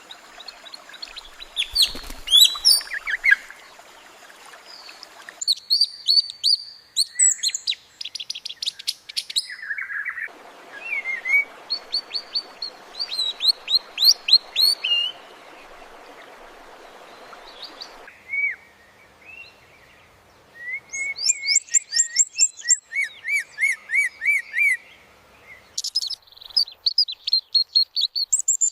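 Birdsong, labelled by its uploader as AI-generated: quick chirps, sweeping whistles and rapid trills in bursts, with pauses between phrases. A faint background hiss cuts in and out abruptly several times.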